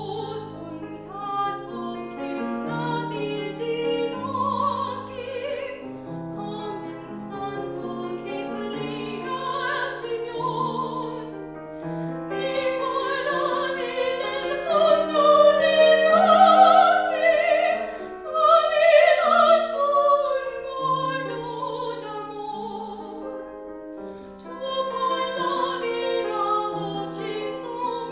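Classical art song: an operatic voice singing with wide vibrato over piano accompaniment, swelling loudest about halfway through.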